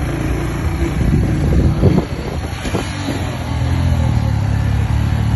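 A motor vehicle's engine running steadily, swelling briefly louder just before two seconds in.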